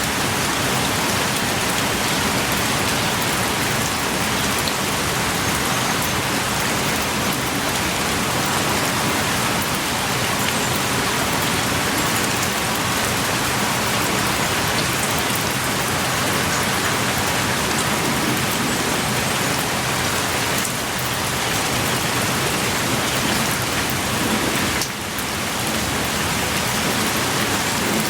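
Heavy rain pouring steadily, with scattered drops and a brief slight lull near the end.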